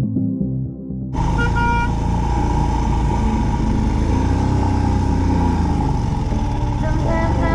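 Ambient music for about the first second, then a sudden cut to a Royal Enfield's single-cylinder engine running steadily under way, with wind and road noise. A short high toot comes about half a second after the cut.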